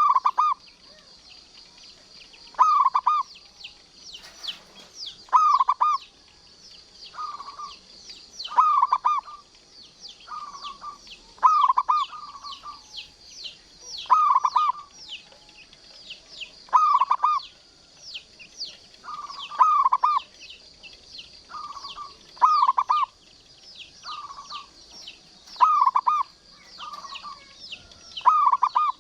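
Zebra dove (perkutut) cooing over and over, each call a short rolling phrase repeated every two seconds or so. Rapid high-pitched chirping from other birds runs behind it.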